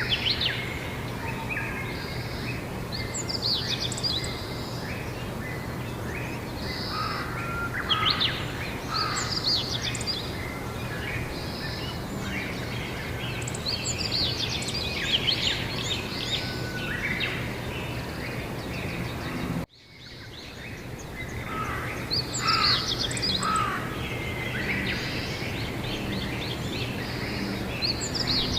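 Several birds singing and chirping in a spring outdoor chorus, with short trills and calls coming and going over a steady low hum and background noise. About two-thirds of the way through, the sound cuts out suddenly for an instant and fades back in.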